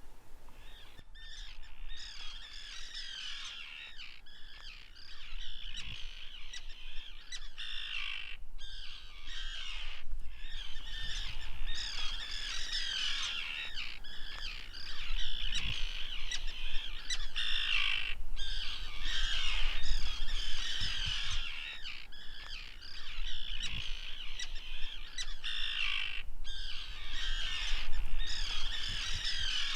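Seabird colony calling: many birds squawking and crying over one another without a break.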